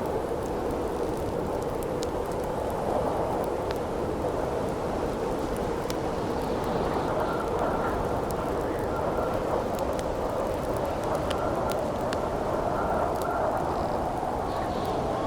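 Steady howling wind, with a faint thin whistle in it through the middle, over a crackling campfire whose sharp pops come at irregular moments.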